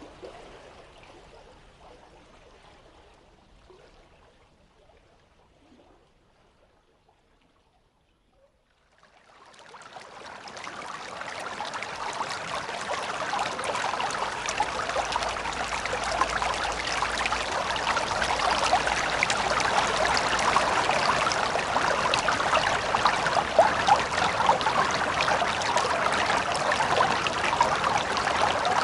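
River water flowing: a quieter stretch fades out to near silence in the first third, then a louder, steady flow of water fades in from about nine seconds and holds.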